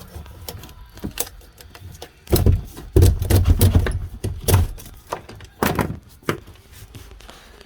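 Clatter of things being handled and moved: a run of sharp clicks and knocks, with heavy low thumping for about two seconds from a couple of seconds in.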